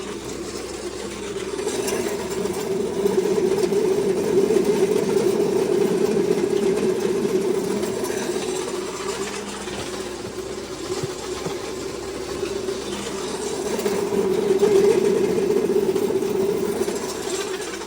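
Pellet feed mill running steadily with a continuous mechanical hum, growing louder and easing off a couple of times.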